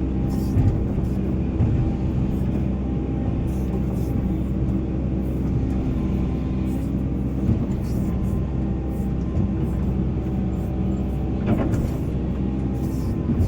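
Volvo EC480 excavator's diesel engine running steadily under working load, with a few short knocks.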